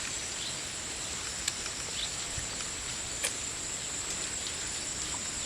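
Steady high-pitched insect drone, with two faint clicks about a second and a half and three seconds in.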